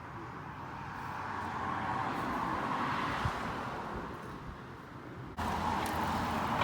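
A car passing on a nearby road, its tyre and engine noise swelling and then fading. The sound cuts off suddenly about five seconds in, replaced by a steadier outdoor background.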